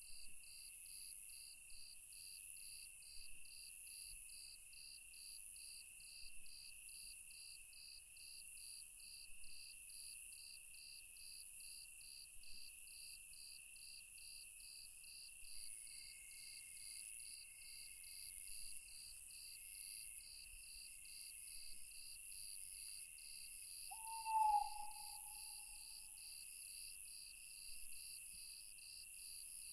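Night-time chorus of crickets and other insects, a steady high trilling with an even pulse of about two chirps a second. About four-fifths of the way through, a single short owl hoot, the loudest sound, cuts through it.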